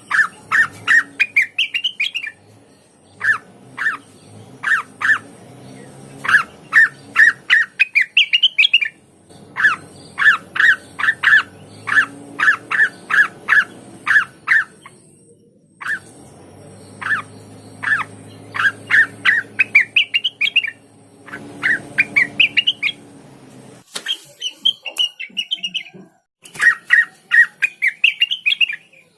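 Cucak wilis, a leafbird, singing a loud, chattering song. Phrases of quick, sharp notes, many climbing in pitch, are broken by short pauses.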